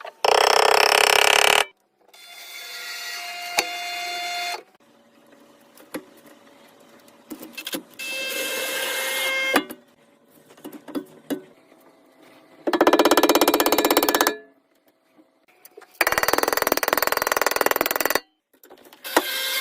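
A series of short bursts of workshop power-tool noise, about six of them, each lasting one to two seconds with pauses between. One, about two seconds in, builds up steadily in level, and another, about halfway through, has a fast, even rattle.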